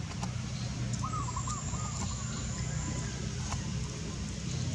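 Outdoor ambience with a steady low rumble, a bird calling a short warbling phrase about a second in, a thin high whine, and a few faint clicks.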